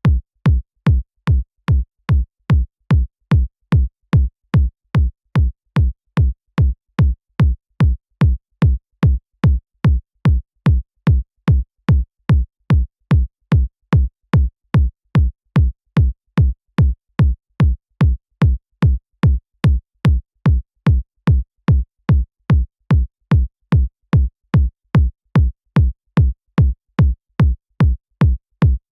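Synthesized electronic kick drum looping on its own, about two hits a second, each a sharp click with a short, deep low thump and silence in between.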